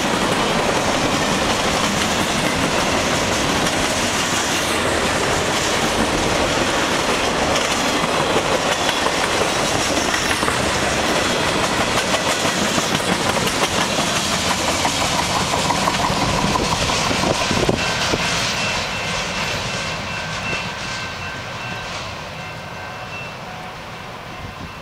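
Freight cars of a mixed freight and autorack train rolling past, wheels clacking steadily over the rail joints. The sound fades over the last several seconds as the end of the train goes by and recedes.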